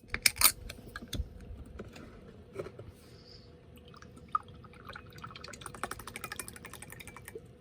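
Sharp clicks of the drink container being handled near the start, then the thick, gum-thickened imitation bird's nest drink being poured into a glass. The pour glugs in quick, close ticks for about two seconds near the end, then stops.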